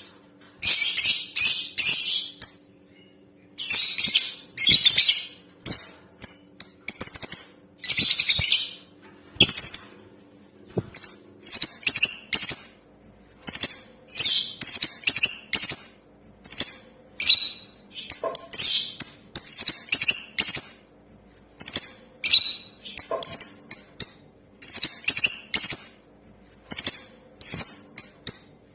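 Female lovebird calling: a run of shrill, high chirps and chattering trills, one burst after another about every second, some drawn out to about a second.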